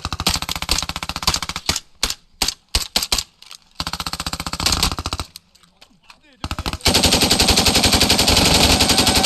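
Machine-gun fire in rapid bursts: a long burst at the start, a few separate shots around two to three seconds in, another burst, a short pause, then the longest and loudest burst over the last two and a half seconds.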